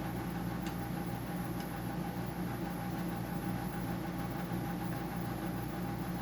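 Dehumidifier running with a steady mechanical hum, with a couple of faint light ticks.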